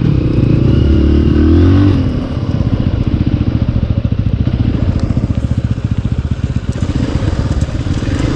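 Dirt bike engine revved up and down for about two seconds, then settling to an idle with an even, rapid beat.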